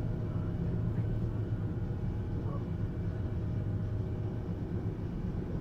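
Regional express train running steadily, heard inside the passenger cabin as an even low rumble.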